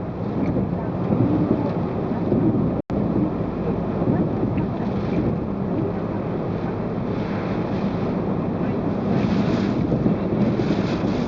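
Typhoon wind blowing hard and buffeting the microphone in a dense, low rumble, with a momentary dropout about three seconds in.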